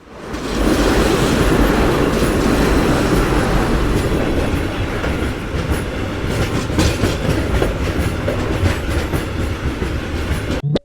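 Train rattling along the rails: a loud, dense rumbling clatter with scattered sharp clicks. It fades in over the first second and cuts off abruptly near the end.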